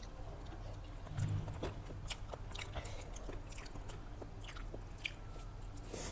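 A person eating close to the microphone: chewing and biting food, with many small sharp mouth clicks and a soft low thump about a second in.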